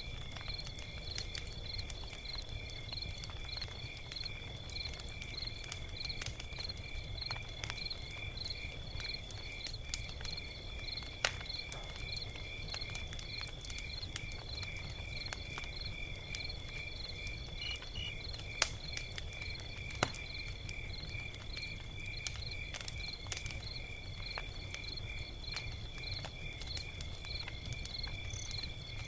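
Log fire crackling, with sharp pops every second or two over a low rumble. Behind it an insect chirps steadily, a high rhythmic pulse at about two to three a second.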